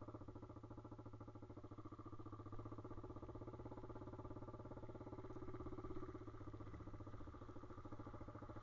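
Pit bike's single-cylinder engine running at a steady speed, its rapid even firing pulses with no revving up or down.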